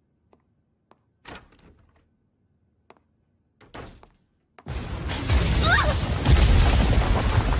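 A few faint clicks and two soft short scrapes, then about two-thirds of the way in a sudden loud rumbling crash with a heavy low end that keeps going.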